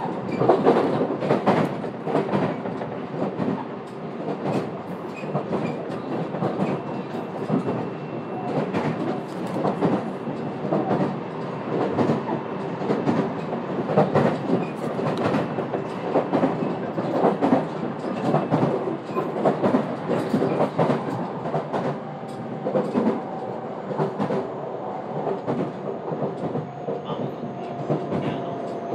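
Running noise heard inside the passenger car of a JR West 227 series electric train: steady rolling rumble with wheels clattering over rail joints. A faint whine, falling slightly in pitch, comes in over the last few seconds.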